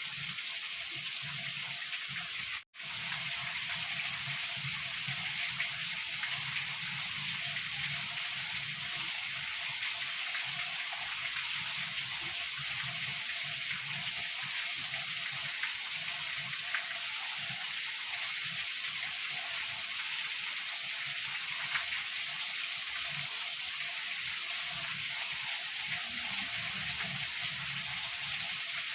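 Heavy rain falling in a steady, even hiss. About three seconds in, the sound cuts out completely for a split second and comes straight back.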